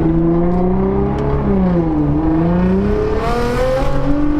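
Nissan R35 GT-R's twin-turbo V6 running through a Fannin aftermarket exhaust under acceleration. The engine note rises, dips briefly about a second and a half in, then climbs steadily again.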